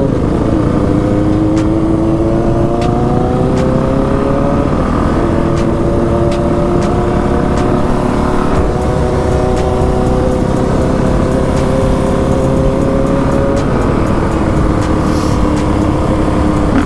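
Dirt bike engine pulling through the gears: the note climbs, drops back as the rider shifts up about five and eight and a half seconds in, then holds fairly steady and drops once more near the end.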